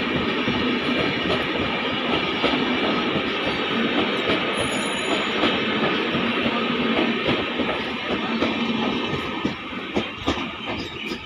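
Passenger train rolling past on the rails, its wheels and coaches making a dense, steady rumble. A few sharp clacks come near the end as the noise fades away.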